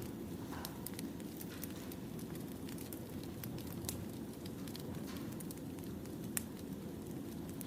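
Firewood burning in a campfire, crackling: a steady low rush of flame noise with scattered sharp pops, the loudest about six seconds in.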